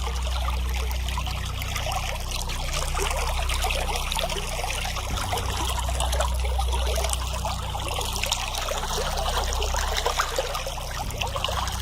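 Steady rush of running water, with a low hum beneath it.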